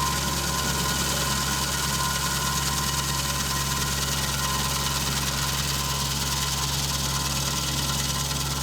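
An engine running steadily at a constant speed, with a steady hum and a hiss over it.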